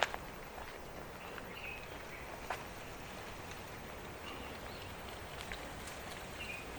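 Quiet outdoor park ambience with a few short, faint bird chirps spaced a couple of seconds apart, and a couple of sharp clicks.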